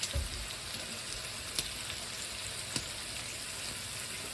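Bacon sizzling in a frying pan: a steady hiss with a couple of sharp pops.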